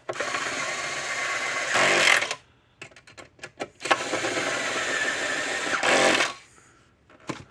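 Power drill with a bit adapter running in two bursts of about two seconds each, driving bolts into a fence charger case.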